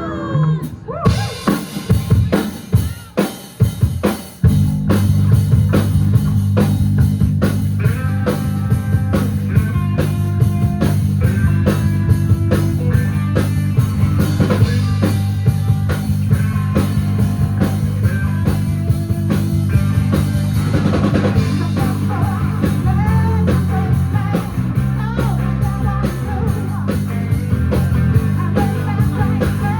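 Live rock band starting a song: the drum kit plays a few separate hits and a fill, then about four and a half seconds in the full band comes in with bass and drums and keeps playing loudly.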